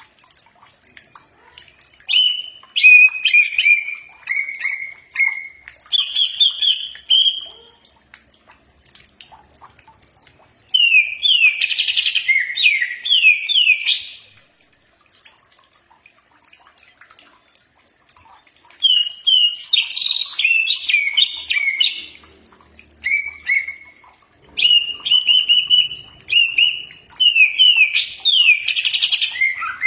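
A cucak ijo (green leafbird) singing: several bursts of loud, quick whistled phrases with fast up-and-down pitch sweeps, separated by short pauses.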